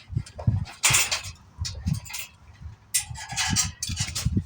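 Irregular clatter and knocks of motorcycle crate parts and packaging being handled, with sharper rattles about a second in and again around the three-second mark.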